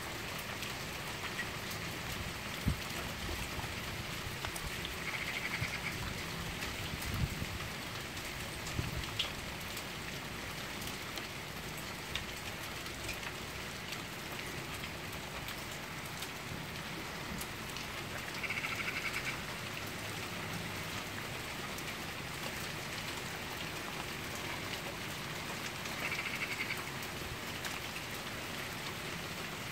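Steady hard rain falling, with scattered drips and taps. A brief high-pitched rattling call comes three times, about 5, 18 and 26 seconds in.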